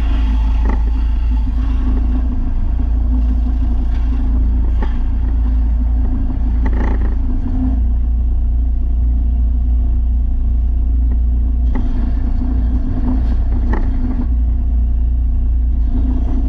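Belt sander with 300-grit paper running with a steady hum, with a few brief scraping strokes as a steel lawn mower blade is pressed against the belt to sharpen its edge.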